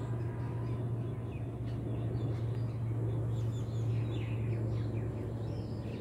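Birds chirping: several short, faint, high chirps, mostly in the second half, over a steady low hum that is the loudest sound.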